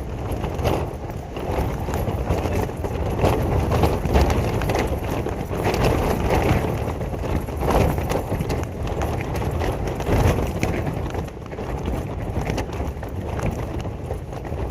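Storm-force wind gusting over a tent, the fabric flapping in quick irregular slaps, with heavy wind rumble on the microphone. The level swells and eases with each gust, the strongest about four, eight and ten seconds in.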